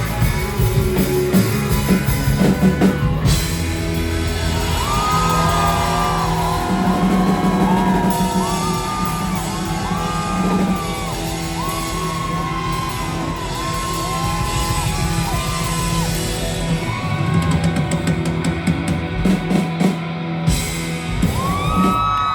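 Live indie rock band playing in a large hall: guitars and drums under long held sung notes that bend in pitch, with a run of heavy drum hits near the end as the song closes.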